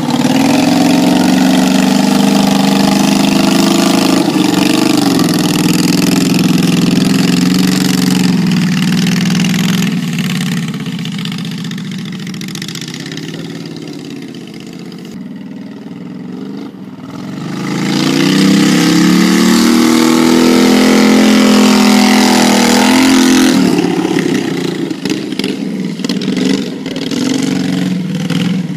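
Monster Mower's engine running loud, dropping to a quieter, lower run around the middle, then revving up again with rising pitch before easing off near the end.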